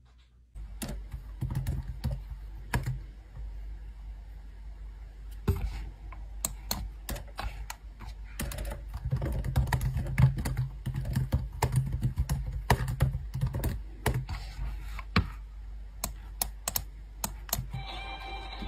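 Irregular sharp clicks and taps, many in quick runs, over a low steady hum. A set of steady tones comes in near the end.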